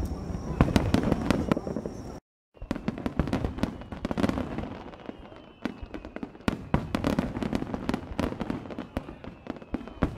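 Aerial fireworks bursting: repeated shell reports over a dense crackle of many small pops. The sound cuts out briefly a little over two seconds in.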